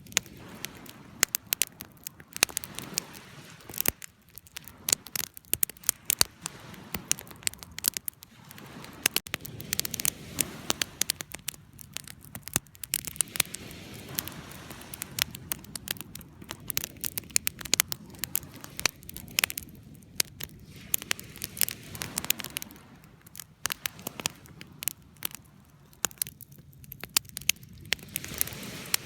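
Wood fire crackling and popping: many irregular sharp pops and snaps, some in quick clusters, over a low steady hiss of burning.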